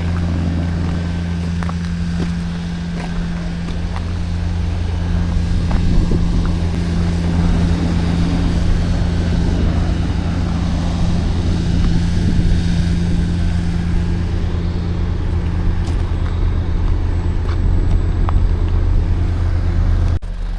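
Steady low engine rumble of a nearby motor vehicle, with street traffic noise swelling in the middle and easing off; the rumble drops away suddenly near the end.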